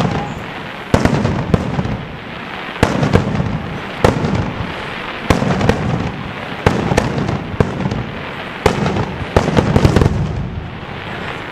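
Daytime aerial fireworks bursting overhead: clusters of sharp bangs every second or two, each with an echoing tail, and the densest, loudest volley near the end.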